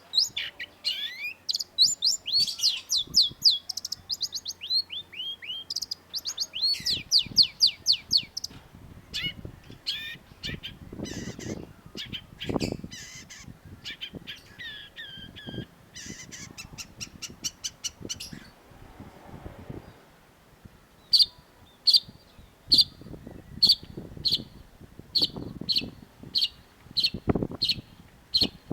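Long-tailed shrike singing: fast runs of high sweeping chirps, then a jumble of varied calls, and after a short pause a series of sharp, evenly spaced notes about two a second. A few low thuds sound underneath midway.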